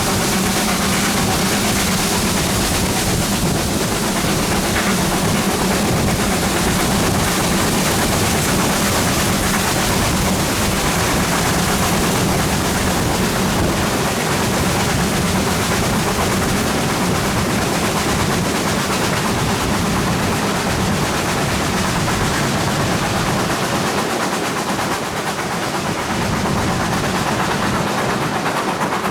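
GWR Manor class two-cylinder 4-6-0 steam locomotive 7820 Dinmore Manor working hard, loud and steady, easing a little near the end.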